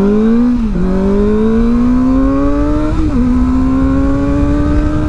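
Kawasaki Ninja ZX-4R's inline-four engine through its new aftermarket exhaust, accelerating hard through the gears. The pitch climbs, drops sharply at an upshift under a second in, climbs more slowly to a second upshift about three seconds in, then keeps rising.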